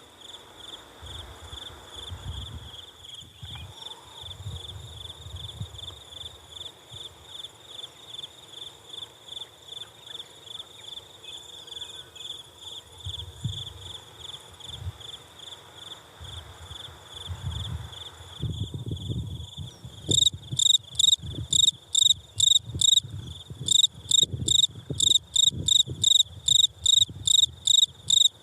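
A cricket chirping: a high, pure trill pulsing about four times a second. About twenty seconds in, the chirps become much louder and sharper, coming about two or three a second. Low rumbles come and go underneath.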